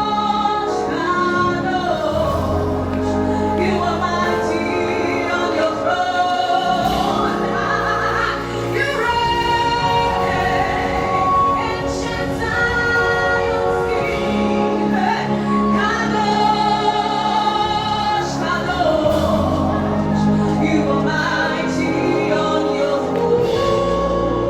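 Live gospel worship song: a woman's voice singing with held, sliding notes over steady instrumental accompaniment.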